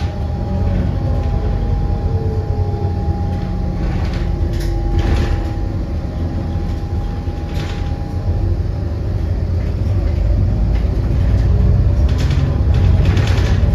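Continuous low rumble of a moving vehicle, with a steady thin whine that fades out about two-thirds of the way through and the rumble growing louder near the end.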